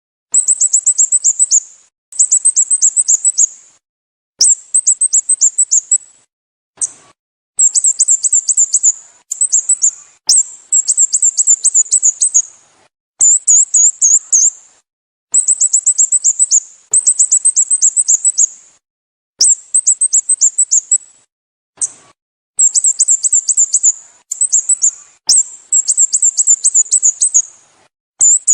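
Sooty-headed bulbul calls, repeated over and over: runs of quick, high-pitched, down-slurred chirps, each run lasting one to two seconds and separated by short gaps.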